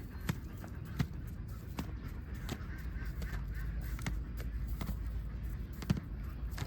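Ducks calling and honking, with sharp clicks scattered irregularly over a steady low rumble.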